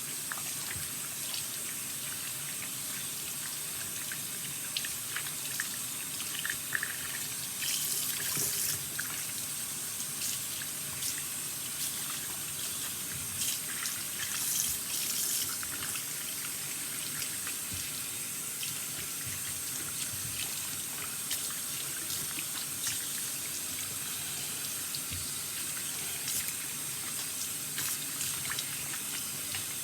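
Tap water running steadily into a sink and splashing through wet hair as conditioner is rinsed out. There are brief louder splashes about 8 seconds in and again about 14 seconds in.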